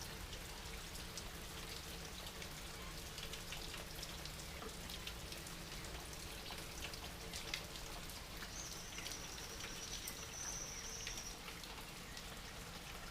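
Light, steady rain falling, a soft hiss full of small drop patters. A little past the middle, a thin high whistling tone holds for about three seconds.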